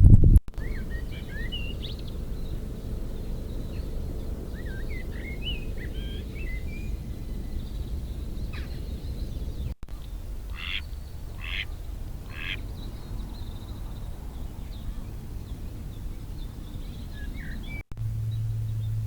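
A duck quacking three times in a row, with small birds chirping here and there. A steady low rumble runs underneath.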